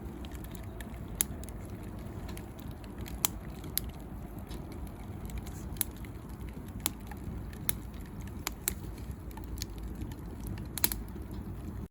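Bonfire of dry branches and bamboo burning with a steady low rumble of flames, broken by about ten sharp, irregular pops and cracks from the burning wood.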